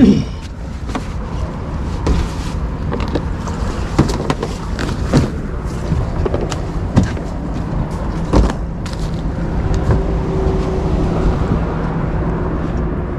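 Boat's outboard engine running steadily, with a few sharp knocks along the way. The engine itself sounds healthy while the boat barely moves, which the owner puts down to a damaged propeller or gearbox.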